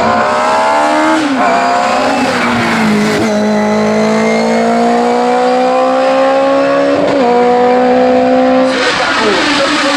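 Mitsubishi hillclimb car's engine at full throttle, its pitch climbing through each gear and dropping at upshifts about one, three and seven seconds in. A burst of rushing noise comes near the end.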